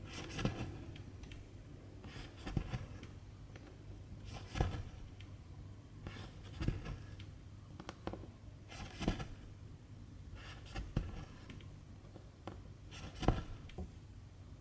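Needle and silk thread pulled through cross-stitch fabric, a short rasping draw about every two seconds, seven stitches in all.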